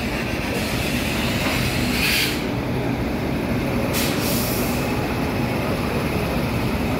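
Indian Railways WAG-9 electric locomotive hauling a goods train past at close range: a steady rumble of wheels on the rails, with two brief bursts of hiss about two seconds and four seconds in.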